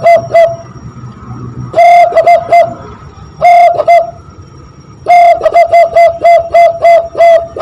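Zebra dove (perkutut) cooing imitated by blowing into cupped hands: hollow whistled notes at one steady pitch in short phrases, each a longer note followed by quick short ones. The last phrase, starting about five seconds in, is the longest, with about eight rapid notes.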